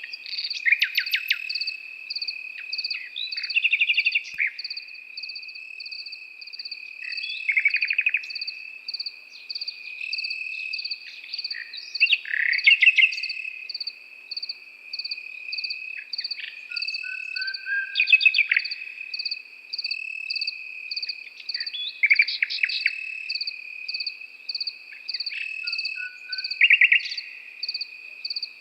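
A nightingale singing short phrases of rapid repeated notes and whistles every few seconds, over the continuous chirping of crickets.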